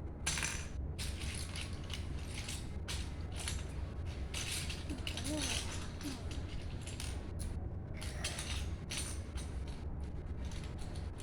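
Loose plastic Lego pieces clattering and rattling as hands rummage through a pile of bricks, searching for a missing part, over a steady low hum.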